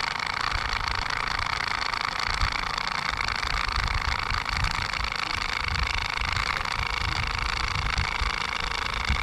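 Small electric motor of a homemade miniature tractor grass cutter running steadily with a high whine, over a fluttering low rumble.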